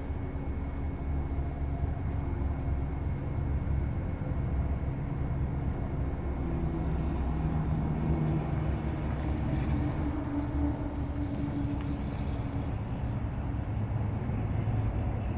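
2018 Audi A5 2.0T's turbocharged four-cylinder engine and exhaust running with a steady low rumble, the engine note rising a little for several seconds around the middle before settling.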